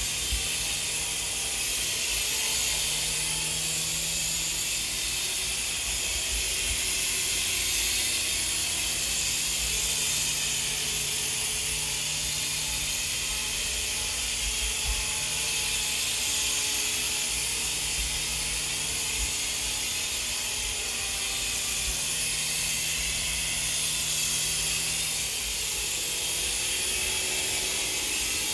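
Small electric motors and rotors of a FireBird 3-channel infrared toy RC helicopter whirring in flight: a steady high buzzing hiss with motor tones that waver up and down in pitch.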